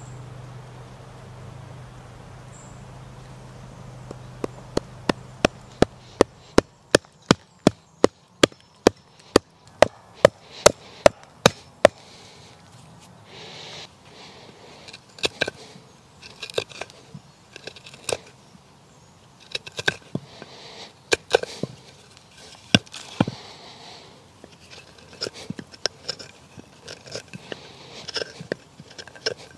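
A rapid, evenly spaced run of sharp knocks, about three a second, for some eight seconds, then irregular clinks and scraping. A low hum fades out about six seconds in.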